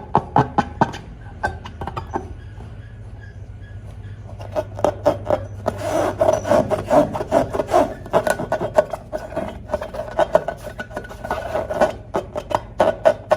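Slime being squeezed and worked by hand, making rapid irregular clicks and crackles. It goes quieter and sparser for a few seconds soon after the start, then turns dense again.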